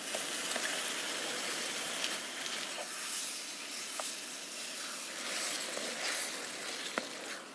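Food sizzling as it fries: a steady hiss with scattered small pops, and one sharper click near the end.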